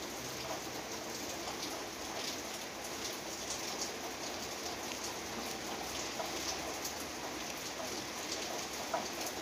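Steady rain falling on the leaves of a fig tree and the vines around it, many single drops heard as small ticks over an even hiss.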